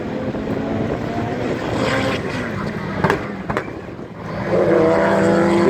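Race car engine running at speed on the track. Two sharp pops come about three seconds in, and the engine grows clearly louder from about four and a half seconds in as the car comes closer.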